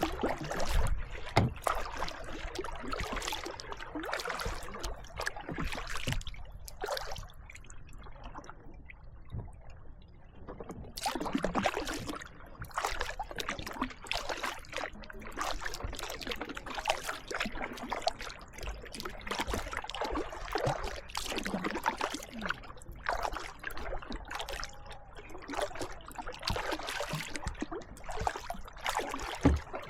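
Kayak paddling: paddle blades dipping and splashing in the water, with water dripping and trickling off them, in irregular strokes that ease off briefly about a third of the way in.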